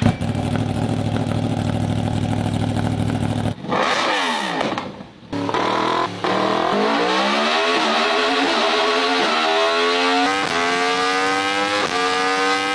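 Motorcycle engine, first running steadily, then a brief pass with falling pitch. From about six seconds in it accelerates hard, its pitch climbing and dropping back at each upshift through several gears.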